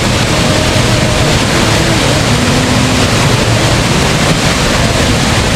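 Loud, steady rush of water, like surf or waves breaking, with faint voices underneath.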